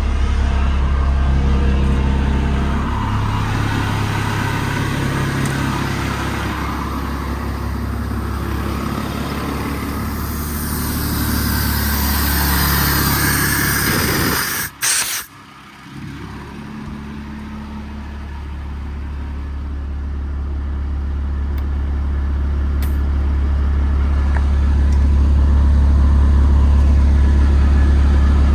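Paccar PX-6 diesel driving the underdeck Vanair PTO air compressor as it builds air. A hiss of air rises over the steady drone near the middle, the sound breaks off briefly about halfway, and the drone then grows steadily louder.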